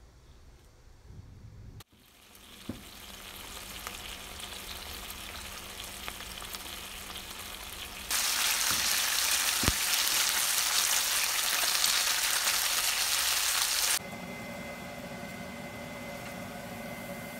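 Eel fillets sizzling in a frying pan under a sticky sauce glaze: the sizzle starts about two seconds in and jumps much louder about eight seconds in. About fourteen seconds in it gives way to a quieter steady hiss with a faint high tone.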